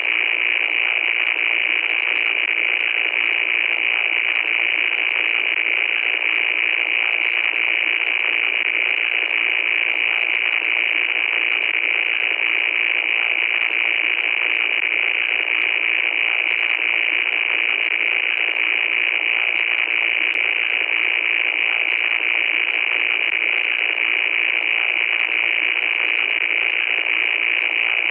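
Loud, steady static noise: a constant hiss with no bass, brightest in its upper part, with faint crackling ticks over it.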